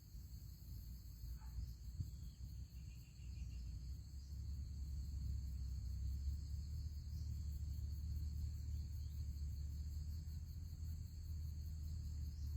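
Steady high-pitched insect chirring, with a low rumble of wind on the microphone that grows louder about four seconds in.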